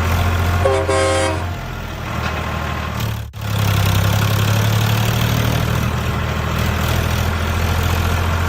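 Truck engine running steadily, with one short horn honk about a second in. The engine sound drops out for a moment just after three seconds, then resumes.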